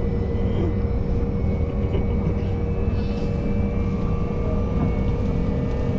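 Commuter electric train running between stations, heard inside the passenger car: a steady low rumble of wheels on rail with a steady motor whine over it.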